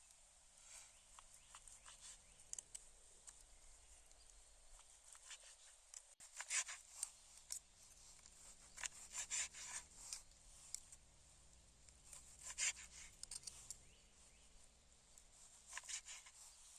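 Faint, irregular rustling and scraping, in short clusters, the loudest about six, nine, twelve and sixteen seconds in.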